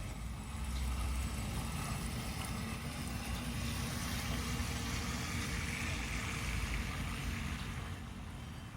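Wind buffeting the microphone outdoors: a steady rushing noise with a heavy low rumble. It grows louder about a second in and eases off near the end.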